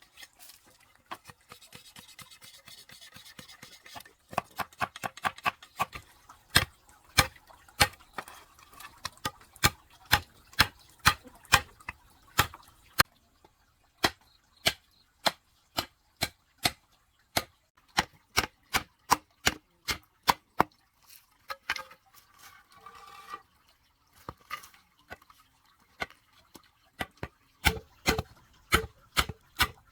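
Repeated sharp strikes of a hand tool on bamboo or wood, about two or three a second in runs with short pauses, after a rasping scrape in the first few seconds.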